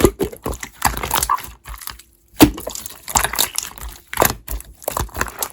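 Hands squishing and poking a chewy slime, making irregular wet clicks and sticky pops, with a short pause about two seconds in followed by a sharp pop.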